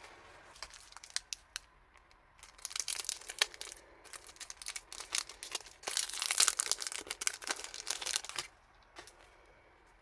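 Packaging crinkling and rustling as it is handled and opened, with irregular sharp crackles. It is busiest and loudest in the middle and dies down near the end.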